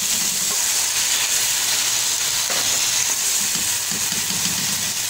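Onions, tomatoes and green chillies sizzling in hot oil in a pot as a wooden spoon stirs them: the onion-tomato masala being fried down.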